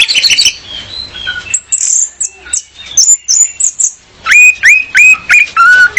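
Female orange-headed thrush (anis merah) calling: scattered short, high chirps, then past the middle a quick run of about six loud, clipped notes, roughly three or four a second.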